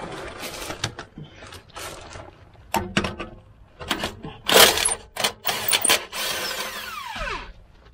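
Short bursts of a cordless impact wrench and metal clanks of tools on exhaust clamps, as the clamps come off a cracked exhaust flex pipe. Near the end the tool winds down with a falling whine.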